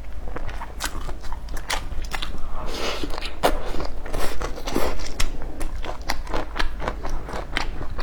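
Biting into and chewing crispy fried food: a quick, irregular run of sharp crunches, thickest for a couple of seconds in the middle.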